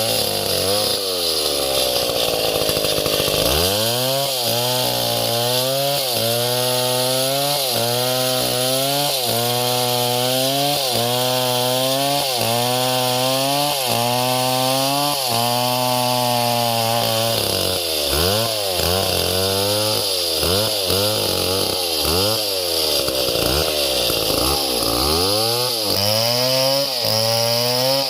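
Small chainsaw running under load while cutting wood. The engine's pitch dips and recovers about once a second, then wavers more quickly and irregularly in the later part.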